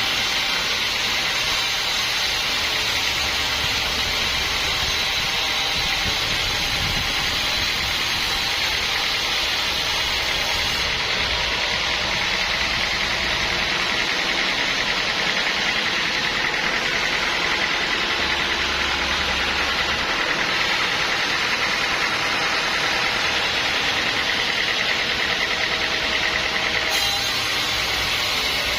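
Sawmill machinery running steadily: an even engine drone under a constant bright hiss.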